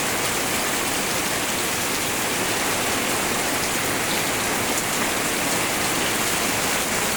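Fairly heavy rain falling steadily, driven by wind.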